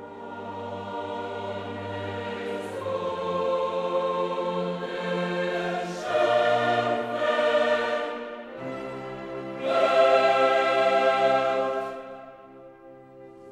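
Choral background music: a choir sings long held chords that swell louder twice and then fade near the end.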